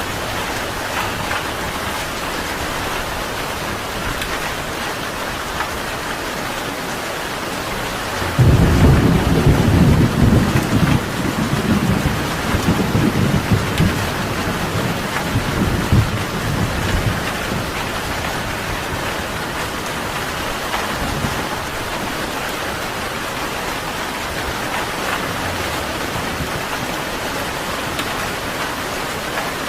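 Steady rain falling, with a roll of thunder that breaks about eight seconds in. The thunder is loudest at first, rumbles on in waves for several more seconds, then fades back under the rain.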